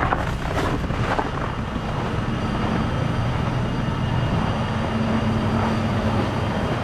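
Diesel semi-truck engine idling with a steady low rumble; a slightly higher steady hum joins it for about a second and a half past the middle.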